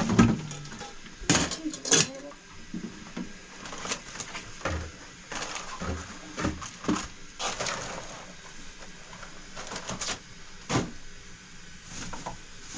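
Irregular knocks and clatter, as of objects being handled and set down, loudest in the first two seconds and again about ten seconds in.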